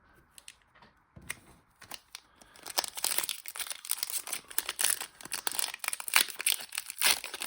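Foil Pokémon booster pack wrapper crinkling as it is handled and torn open: a few light clicks at first, then dense crinkling from about two and a half seconds in.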